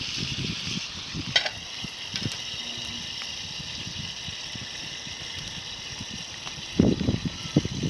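Wood fire of climbing-rose twigs hissing steadily, with one sharp crack about one and a half seconds in. A cluster of low knocks comes near the end.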